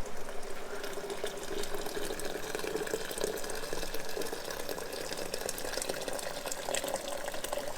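Bacon sizzling on a griddle: a steady hiss with fine crackling.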